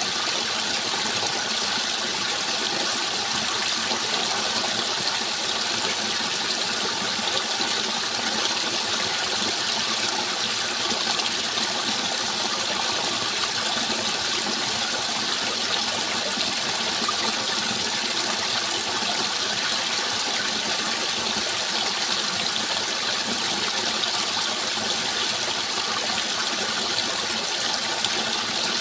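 Steady rushing of running water, an even hiss with no change in level.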